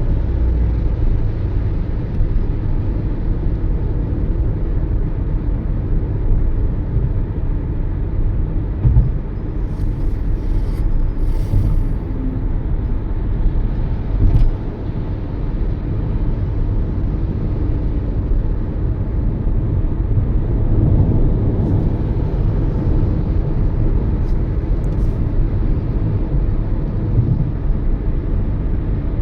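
Toyota Yaris driving at road speed: a steady low rumble of tyres and engine, with a few short clicks scattered through.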